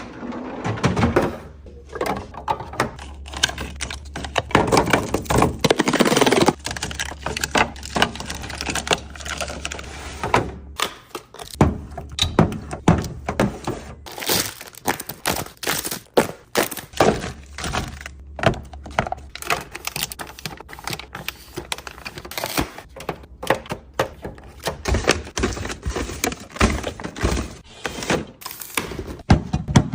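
Food containers, jars and packages being set down and handled while a fridge is restocked: a steady run of thunks, clicks and clatters with some packaging rustle. A low hum comes and goes in stretches.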